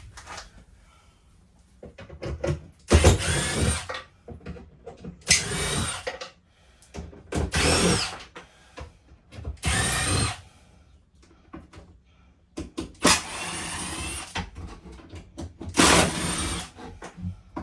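A power drill/driver running in about six short bursts of roughly a second each, its pitch rising and falling within each run as it backs screws out of the RV's interior panels.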